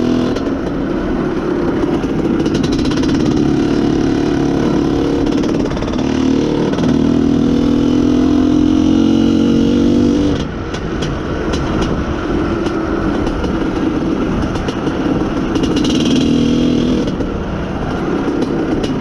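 Izh Planeta Sport's single-cylinder two-stroke engine running at a held speed that dips briefly about six seconds in, then drops suddenly about ten seconds in and runs lower and rougher. The engine runs poorly; the title blames a lean mixture, and the owner suspects a misfire in the wiring.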